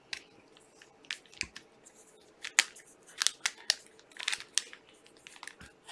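Plastic-wrapped trading card packs being handled: a string of short, irregular crinkles and clicks.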